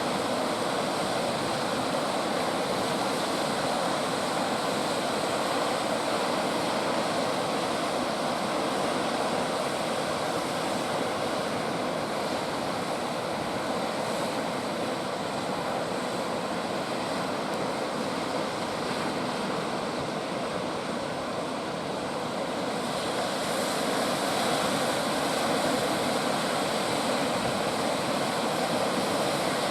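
Indian Ocean surf breaking continuously in a steady wash of noise. It eases slightly about two-thirds of the way in, then swells again as another set of waves comes in.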